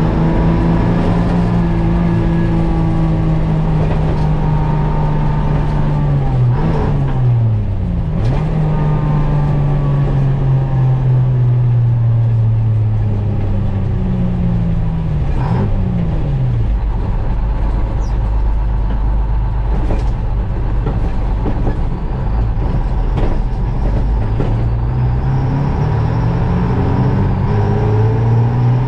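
GMC Crackerbox semi's two-stroke Detroit Diesel engine pulling the truck along, its pitch slowly sagging, dipping sharply twice about a quarter and halfway in, then climbing again near the end.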